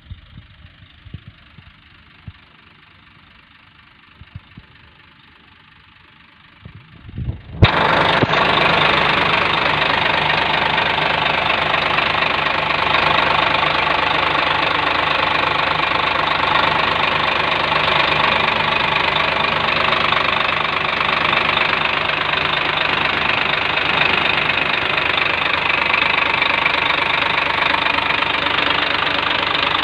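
Quiet with a few faint clicks, then about a quarter of the way in the HOWO 371 tractor truck's diesel engine comes in abruptly and runs steadily at idle to the end.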